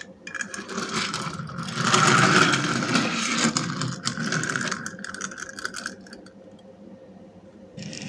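Small die-cast toy vehicle being handled and rolled on a hard surface, its wheels and body rattling for several seconds, loudest about two seconds in and fading out near the end.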